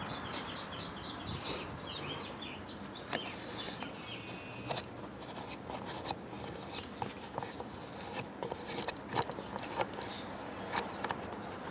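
A bird chirping a quick run of short notes during the first second or so, then scattered light clicks and taps, with no steady tool noise.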